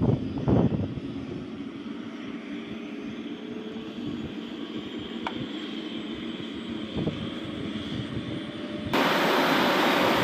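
F-35 Lightning II jet engine running, a steady high whine over a low rumble, with a couple of thumps at the start. About nine seconds in the sound jumps abruptly to a much louder, fuller jet noise.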